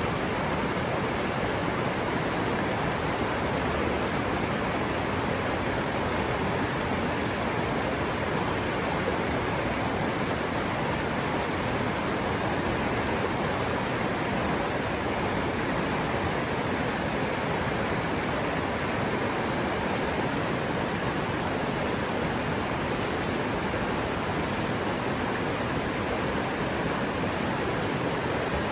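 River water running in a steady, unbroken rush.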